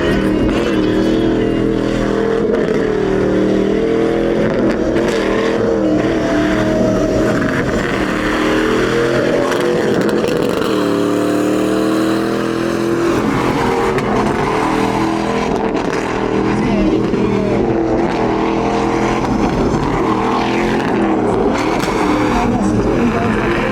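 Truck engines revving hard and continuously, their pitch wavering up and down as the throttle is worked, typical of trucks doing donuts and burnouts in a sideshow pit.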